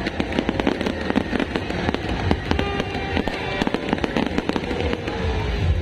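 Fireworks display: many shells bursting in rapid, overlapping bangs and crackles, several a second.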